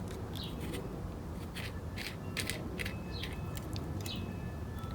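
Scattered light metallic clicks and ticks from hand work on an Emerson Electric fan's motor mounting, as the nut is worked off and the motor and its washers are freed.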